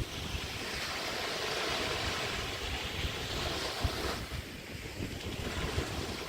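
Small bay waves washing onto a beach, the wash swelling and then easing about four seconds in, with wind rumbling on the microphone.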